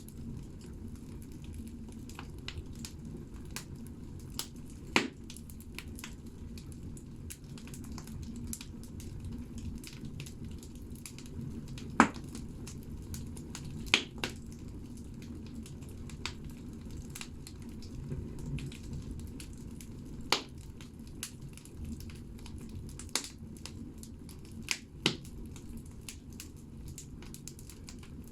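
Firewood burning in a banya stove: a steady low rush of the fire with sharp crackles and pops every few seconds, the loudest about twelve and fourteen seconds in.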